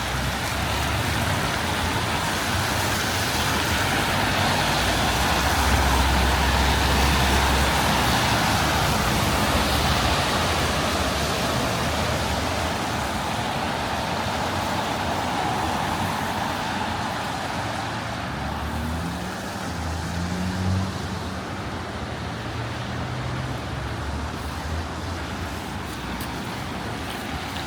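City street traffic, a steady noise of passing cars, with a louder vehicle going by in the first third.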